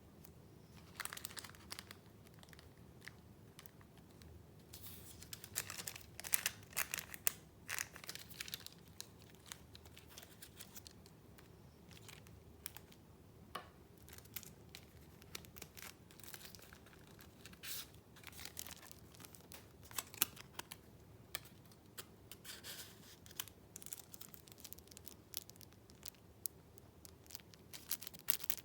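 Paper being handled: irregular rustling and crinkling of sheets and journal pages, with scattered small clicks and taps, busiest in two stretches a few seconds in and again about two-thirds of the way through.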